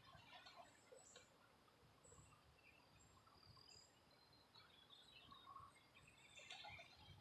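Faint outdoor ambience with scattered short, high bird chirps.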